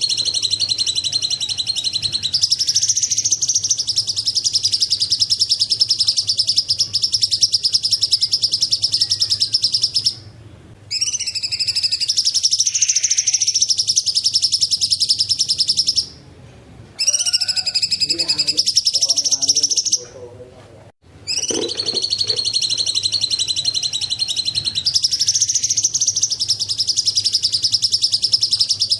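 Cucak cungkok singing: a fast, dense chattering trill in long phrases of several seconds, its pitch stepping up slightly a couple of seconds into each phrase, with short pauses about 10, 16 and 20 seconds in.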